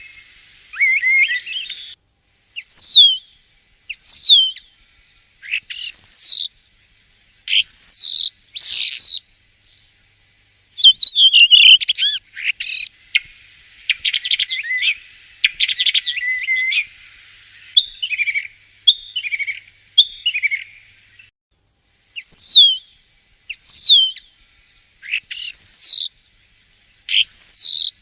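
Common starling singing: a varied song of clear, steeply falling whistles repeated every second or two, with a stretch of rapid rattling, chattering notes in the middle.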